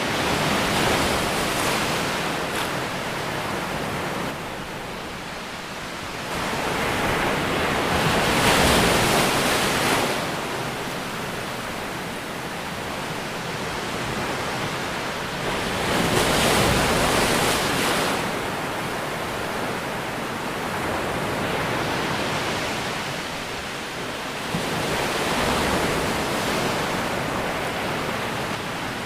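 Ocean waves breaking and washing ashore, a steady surf hiss that swells with each wave about every eight seconds.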